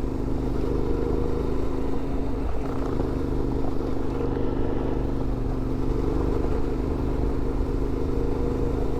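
CFMoto 450MT adventure motorcycle's parallel-twin engine running at a steady cruise while riding, with wind and road rumble; its note shifts slightly about two and a half seconds in.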